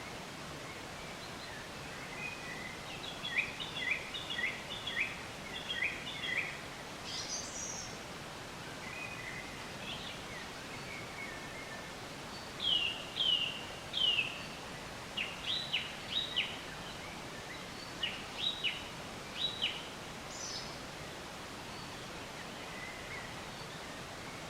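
Songbirds chirping in short groups of quick, sharp notes that come and go, with a couple of higher calls, over a steady background hiss of outdoor noise.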